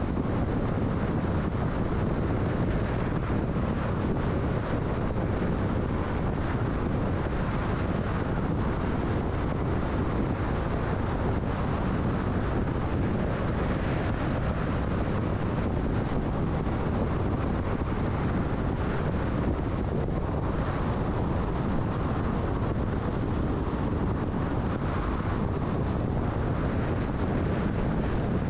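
Steady road and wind noise of a car driving at freeway speed: an even rush of tyres on pavement and air.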